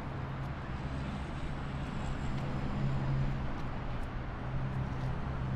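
Steady low engine drone over a hiss of background noise, a little louder around the middle.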